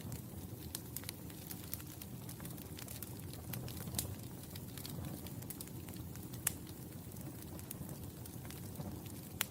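Wood fire burning in a fireplace: irregular sharp pops and snaps of crackling wood over a steady low rumble of the flames, with louder pops about four seconds in and again about six and a half seconds in.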